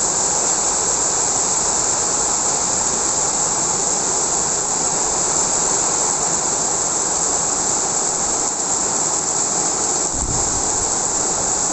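Heavy rain pouring down in a windy storm, a steady dense hiss. About ten seconds in, a short low rumble, like a gust of wind hitting the microphone.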